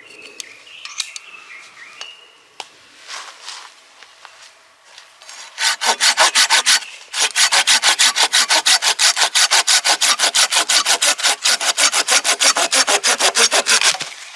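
Hand saw cutting through wood with quick, even back-and-forth strokes, about four to five a second. The sawing starts about five seconds in, stops briefly, and then runs on steadily.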